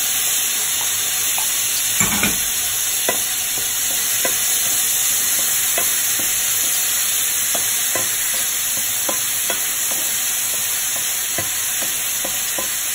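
Diced tomatoes and onions sizzling in hot oil in a frying pan, a steady hiss, while a wooden spatula stirs and taps against the pan. A louder knock comes about two seconds in.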